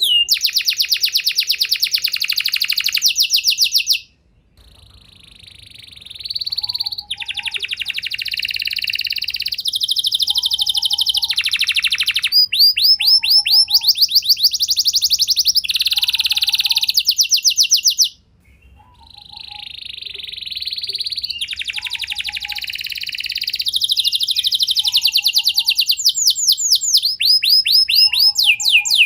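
Domestic canary singing a long, loud song of rapid trilled phrases, each a fast run of repeated notes, broken by two brief pauses.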